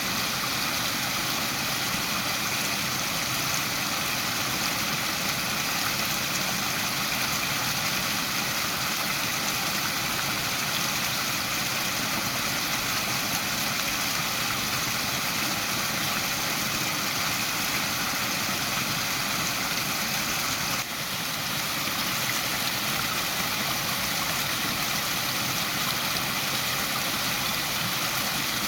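Waterfall: water falling in a steady, even rush, with a brief dip in level about two-thirds of the way through.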